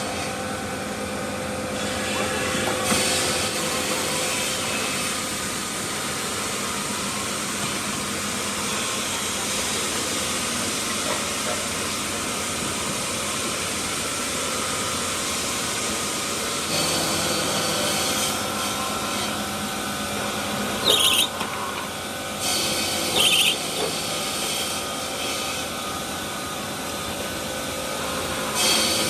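Stone-working machinery in a marble factory running steadily: a continuous grinding noise over a steady hum, changing in character a few times. Two short, high-pitched squeals come about two-thirds of the way through.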